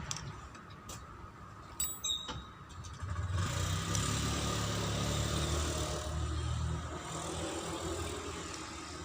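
An engine running, after a few sharp clicks: it comes in suddenly about three seconds in and fades away over the last couple of seconds.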